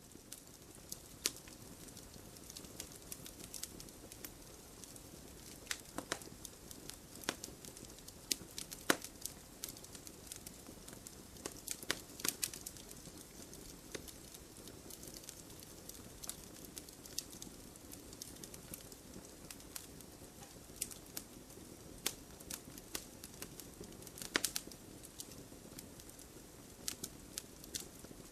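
Fire burning in a fireplace, crackling: irregular sharp pops and snaps, a few louder ones, over a soft steady hiss.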